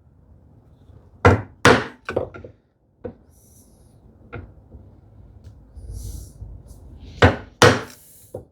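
Chisel being struck to chop across the grain at the wall of a housing dado in wood, light first chops: a pair of sharp knocks about a second in, a few lighter taps after, then another pair of knocks near the end.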